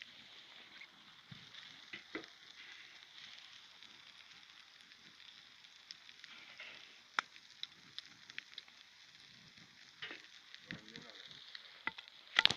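Rubbish fire burning in a barrel: a steady hiss with scattered sharp crackles and pops, and a loud cluster of knocks just before the end.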